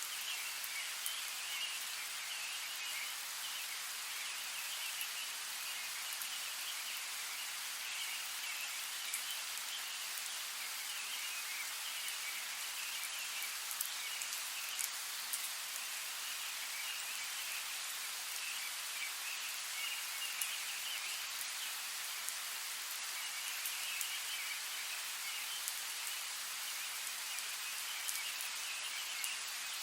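Steady rain falling, with scattered sharper drops hitting close by.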